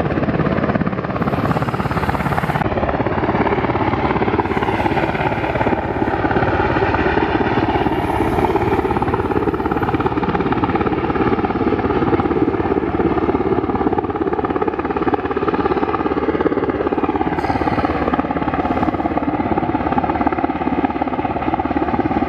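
U.S. Coast Guard helicopter hovering low, steady and noisy rotor and engine sound, while working a load on its hoist cable. The pitch shifts slightly about two-thirds of the way through.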